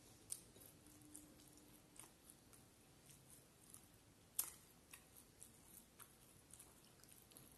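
Faint close-miked chewing with the mouth closed, with scattered soft wet clicks from lips and fingers in curry, and one sharper click a little past four seconds in.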